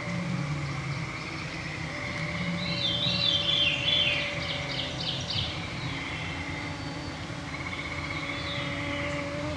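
A chorus of mosquitoes whines in a steady hum close around the microphone. A songbird sings a short rolling phrase in the middle, and a frog trills at the start and again near the end.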